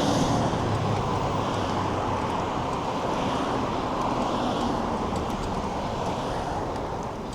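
Steady wind rush over the microphone of a moving bicycle, with road traffic underneath.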